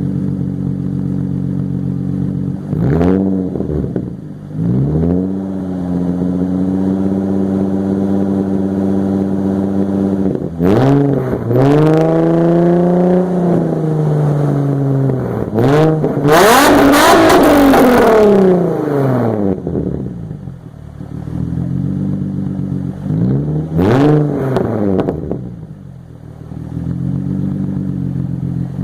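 An engine idling steadily and being revved in several short blips, the pitch rising and falling back each time, with one longer, higher rev about midway.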